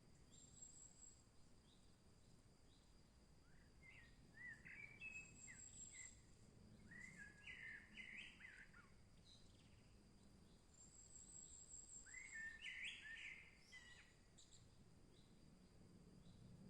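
Songbirds singing in a forest: three phrases of quick, jumping chirps, with a thin high trill from another bird between them, over a faint steady high tone.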